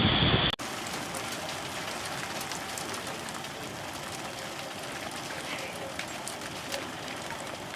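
Steady rain with scattered drops ticking close to the microphone, over an even rushing noise of rain and wind in which a tornado roars in the distance, like a train.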